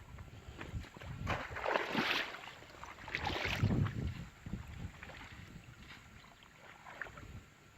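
Water splashing and sloshing in uneven bursts, loudest about one and a half to four seconds in.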